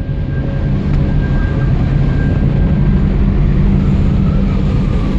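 Storm wind buffeting the microphone on board a ship, over a steady low hum with a faint high whine.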